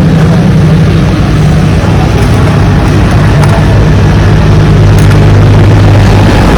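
A motor or engine running steadily, a loud, even low hum with no change in speed.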